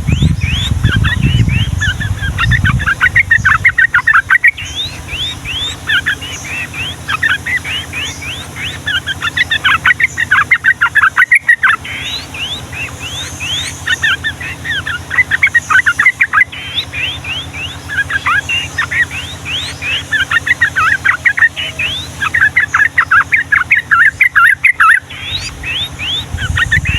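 Yellow-vented bulbuls (trucukan) singing loud, long, rapid runs of short sweeping chirps, bursts with brief gaps between them. A low rumble sits under the song in the first few seconds.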